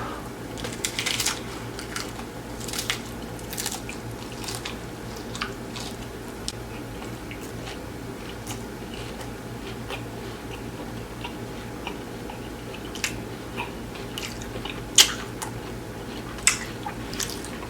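Close-up biting and chewing of crunchy nacho cheese taco shells: irregular crisp crunches and mouth clicks, with a handful of louder bites.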